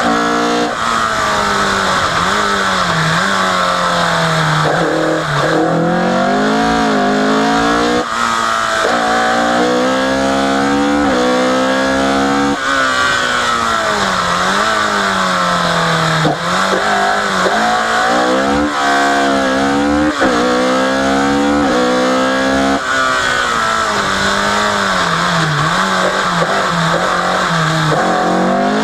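Opel Kadett C Coupe rally car's engine under hard acceleration on a stage. It revs up in pitch and drops sharply at each gear change, many times over, with slower falls as the driver lifts or brakes and shifts down.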